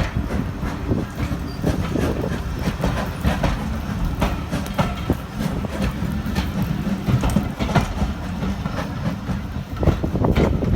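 Train running along the track: a steady low rumble with rapid clattering and clicking of the wheels over the rails.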